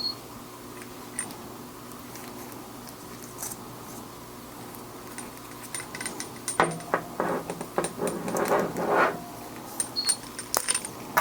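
Small metal shower fittings being handled as Teflon tape is wrapped onto their threads: light metallic clicks and clinks, with a denser few seconds of rubbing and handling noise about two-thirds of the way through.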